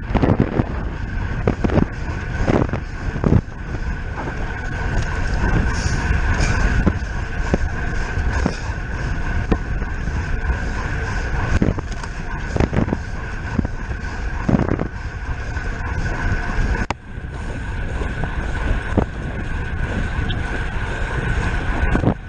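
Wind rushing over the microphone of a racing bicycle at speed, with a steady high whine and occasional short knocks from the bike.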